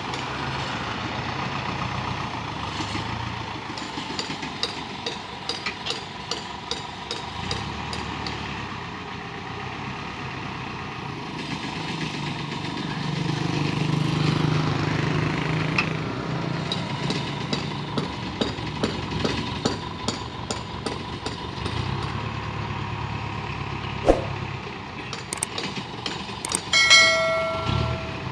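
Dump truck engine running, swelling for a few seconds around the middle, with scattered clanks and knocks. A single sharp bang comes a little before the end, then a short horn-like tone near the end.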